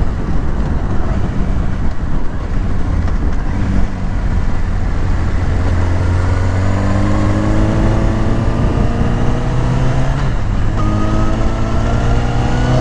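Sportbike engine pulling under acceleration, its pitch climbing steadily from about four seconds in, with a short break near ten seconds before it climbs again, over a constant rush of riding wind on the microphone.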